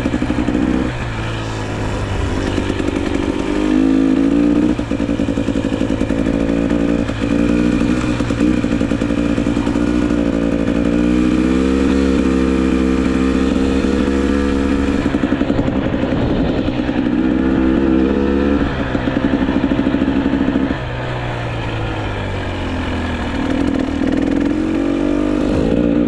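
GasGas EC300 two-stroke enduro motorcycle being ridden: the engine pitch climbs under throttle, then drops abruptly at each upshift or let-off, about six times.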